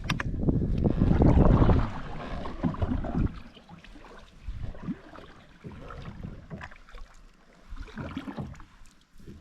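Kayak paddle strokes dipping and splashing in lake water, one every second or two. A loud low rush fills the first three seconds.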